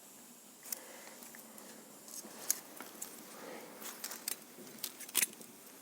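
Light, scattered metallic clicks and taps from feeler gauge blades being handled and swapped against a gear and its housing. It is a gear-to-housing clearance check.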